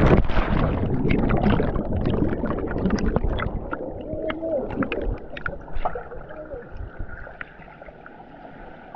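Muffled underwater sound from a camera sinking through the water: gurgling and bubbling with scattered clicks, fading away over several seconds, with a faint steady hum in the last few seconds.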